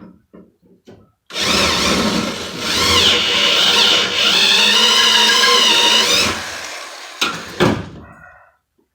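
Power drill cutting through the aluminum head of a factory rivet that holds a truck door's window regulator, its motor pitch wavering under load for about five seconds before winding down. A few light clicks come before it starts, and two sharp knocks near the end.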